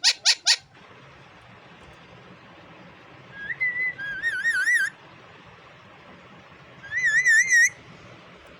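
Indian ringneck parakeet giving a quick burst of short shrill calls, then two warbling whistles with a fast, wavering pitch, about three and a half and seven seconds in.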